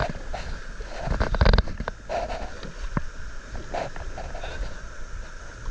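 Canoe paddles dipping and splashing in river water: a few uneven strokes, the loudest about a second and a half in, over a low wind rumble on the microphone.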